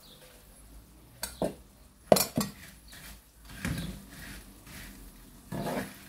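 Dishes and cutlery clinking and clattering: a few sharp knocks, the loudest about two seconds in, then softer handling noises.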